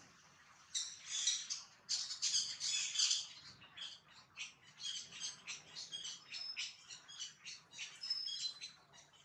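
Birds chirping and squawking in a busy run of short, high-pitched calls, beginning about a second in.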